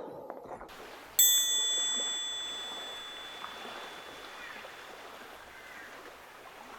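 A small bell struck once about a second in, its clear high ring fading away over several seconds.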